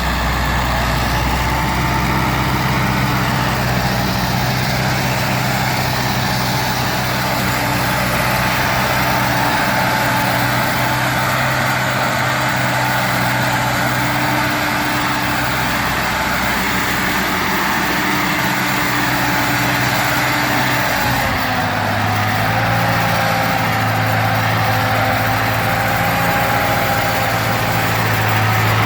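1942 Ford 9N tractor's four-cylinder flathead engine running steadily. Its speed drops a little about two-thirds of the way through, then holds.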